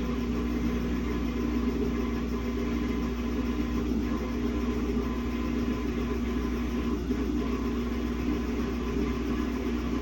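Samsung WA50R5200AW top-load washing machine running with a steady hum.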